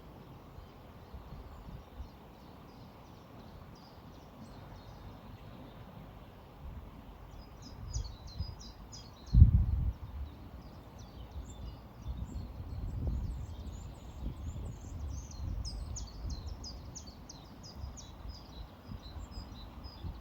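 Small birds chirping, with quick trilling runs of high notes, over the low steady rush of a river and breeze. About nine seconds in, a loud low rumble briefly stands out above everything else.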